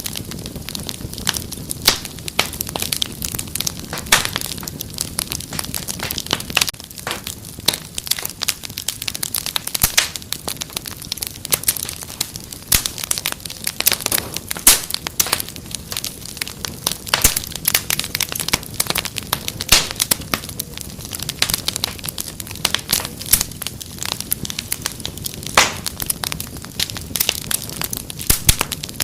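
Wood fire crackling steadily: many sharp irregular pops and snaps over a low steady rumble of flames.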